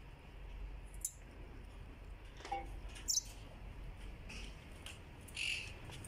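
Caged pet birds giving a few short, scattered calls, spaced about a second apart over a faint steady background.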